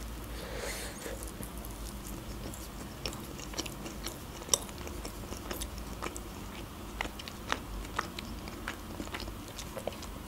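A person chewing a mouthful of burger: soft, moist chewing with many small, irregular mouth clicks and smacks.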